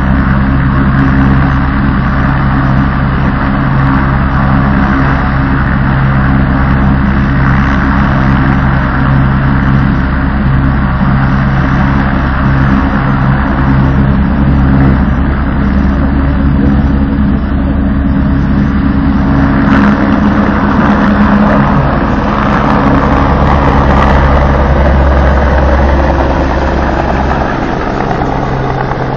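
Helicopter's turbine engine and rotor running loud and steady during takeoff. About two-thirds through, a louder rushing of rotor wash joins the engine sound, and the whole sound eases a little near the end.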